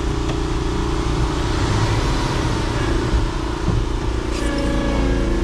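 Concrete mixer truck's diesel engine running steadily while it pours concrete into a power buggy, with a noisy rush over the engine. Another engine tone joins about four and a half seconds in.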